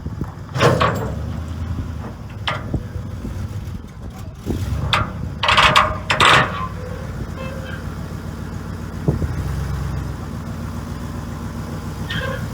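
A vehicle engine running steadily, with several sharp knocks and clanks over it, the loudest a cluster about five to six and a half seconds in.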